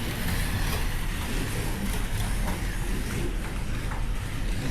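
Several scale slot cars racing round the track together, a steady whir of small electric motors and wheels running in the slot.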